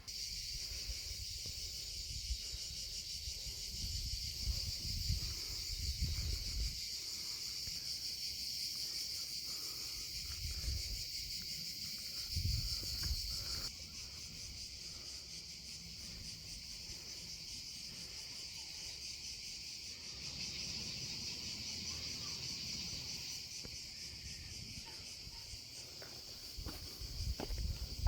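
A steady, high-pitched chorus of insects in the trees, dropping a little in level about halfway through, with a few low muffled thumps underneath.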